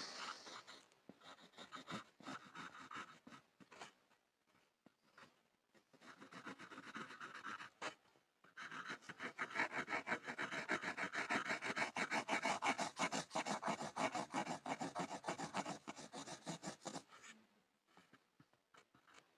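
Pencil scribbling on a wooden board. Light, scattered scratchy strokes at first, then fast, continuous back-and-forth scribbling from a little before halfway, stopping a couple of seconds before the end.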